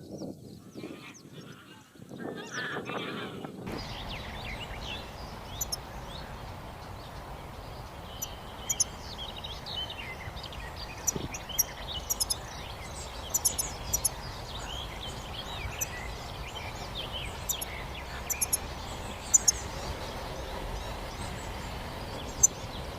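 Small songbirds giving many quick, high chirps and twitters over a steady background noise.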